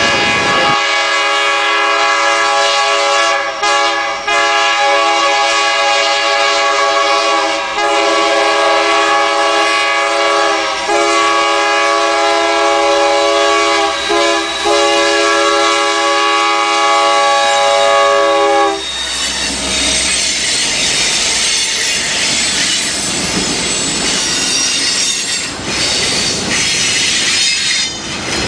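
Locomotive air horn sounding a chord of several notes, held in long blasts with a few short breaks for about eighteen seconds. It then stops, and the train rolls past with rail clatter and squealing wheels.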